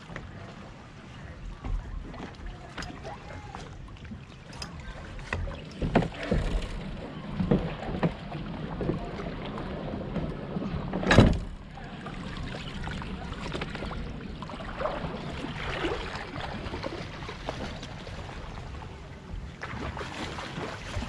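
Kayak on the water: water sloshing with scattered knocks against the hull, and one loud knock about eleven seconds in.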